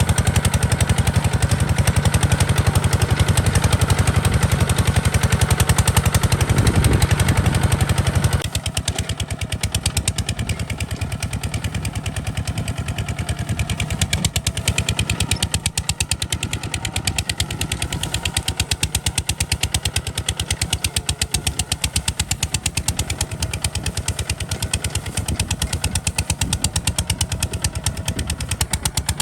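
Single-cylinder Kubota RT140 DI diesel engine of a walking tractor, chugging steadily with rapid even beats. About eight seconds in, the sound drops suddenly to a quieter level and carries on.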